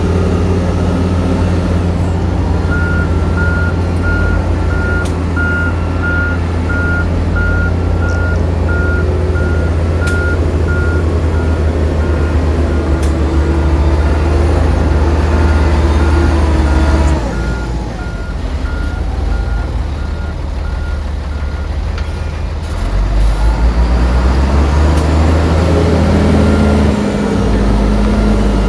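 Heavy diesel engine of a loading machine or truck running hard, with a reversing alarm beeping steadily over it for most of the stretch. The engine eases off about two thirds of the way through, then picks up strongly again near the end.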